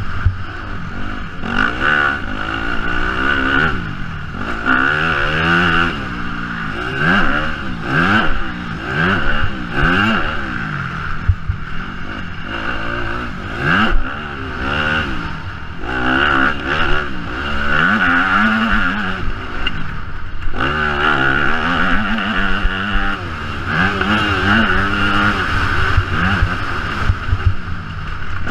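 Yamaha motocross bike's engine revving hard and shutting off again and again, its pitch climbing and dropping every second or two as the rider accelerates and rolls off around the track, over a steady low rumble of wind on the microphone.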